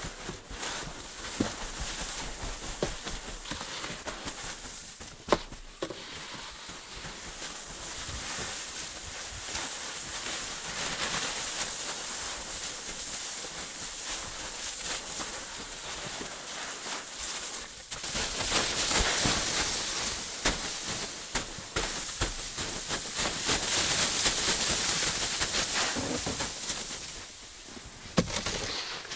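Saw cutting through wooden ceiling boards to open a hole for a stove chimney: a continuous rasping noise that swells and eases, loudest in the last third, with a few sharp knocks.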